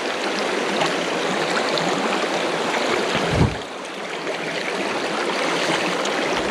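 Rushing creek water running high after heavy rain, a steady splashing rush, with one brief low thump about halfway through.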